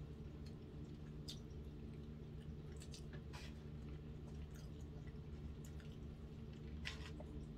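Close-miked wet chewing of soft macaroni and cheese: a few sharp mouth clicks and smacks, spaced a second or more apart, over a steady low hum.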